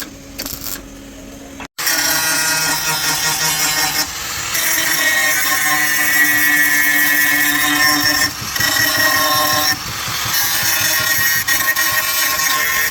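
A few light mechanical clicks, then, after a brief cut about two seconds in, a power tool running steadily and loudly with a whining tone, working on car body sheet metal.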